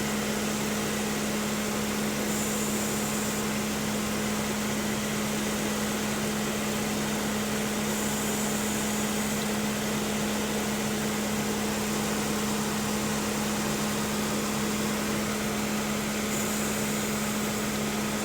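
2006 Ford Escape's engine idling steadily with the A/C running on max, an even hum with a constant low tone, while the system is being recharged with refrigerant. Three short, higher-pitched hisses come and go along the way.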